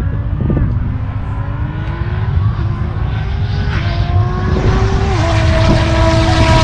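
Race car engine accelerating hard down the strip, its pitch climbing through each gear and dropping sharply at upshifts about four and five seconds in, growing louder as the car approaches. Wind rumble on the microphone runs underneath.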